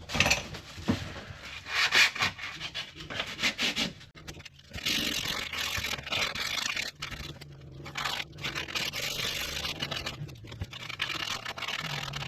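Hand-sanding a painted caravan ceiling with 240-grit sandpaper, feathering the edges of peeled paint. Separate quick rubbing strokes at first, then steadier continuous rubbing from about five seconds in, with brief pauses.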